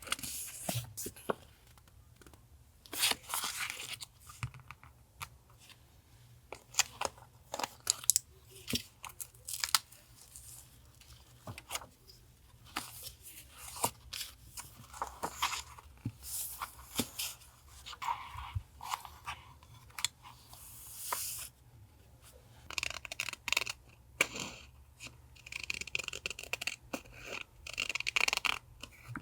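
Close-up handling of collage paper and stickers: sheets rustling, crinkling and being torn, with many short sharp taps and clicks at irregular moments.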